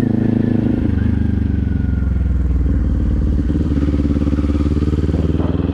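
Kawasaki Z400's 399 cc parallel-twin engine running under way, heard from on the bike; the engine note eases down slightly and climbs again near the end.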